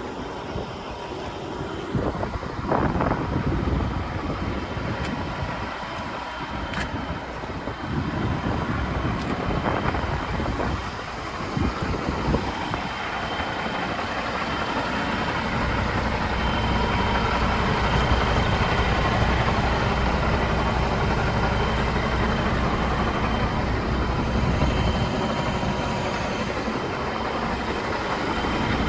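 Scania R 480 truck's diesel engine running steadily, with a faint steady whine above it. Its low rumble grows heavier about halfway through.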